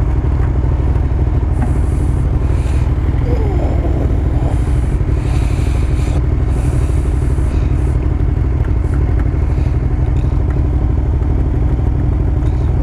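Motorcycle engine running steadily and evenly, with no revving, its low note constant throughout.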